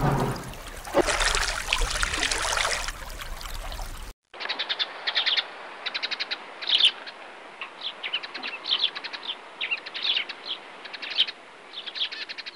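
Water splashing as a polar bear swims with a tyre. About four seconds in it cuts sharply to a sparrow chirping, in quick runs of short high chirps.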